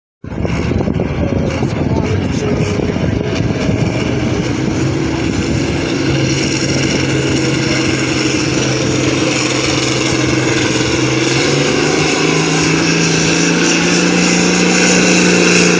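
Farm pulling tractor's engine running loud and hard under load. Its pitch climbs in two steps, about six seconds in and again about two-thirds of the way through.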